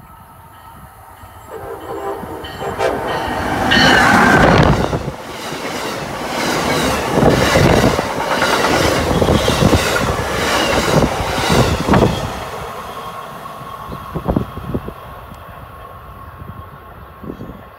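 Amtrak passenger train sounding its horn in steady blasts as it approaches. It then passes close at speed, with a loud rush of wheel and car noise and a rhythmic clickety-clack as the cars go over the rails. The noise fades after about twelve seconds as the train recedes.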